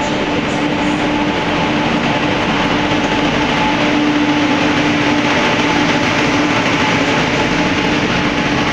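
Passenger train pulling into a station, locomotive then coaches rolling past at low speed: a steady rumble of wheels on rail with a steady hum running through it.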